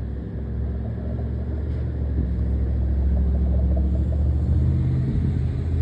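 Low, steady rumble of a car engine running, swelling slightly in the middle.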